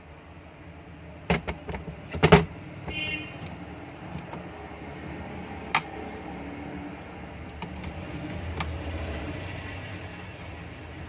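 Metal parts of an exhaust fan motor knocking and clinking as they are handled and fitted together: a quick cluster of sharp knocks with a brief metallic ring after them, then a single click and a few faint ticks.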